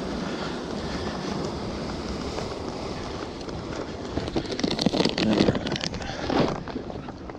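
Wind buffeting the microphone, joined about four seconds in by a run of loud, irregular footsteps that fade near the end.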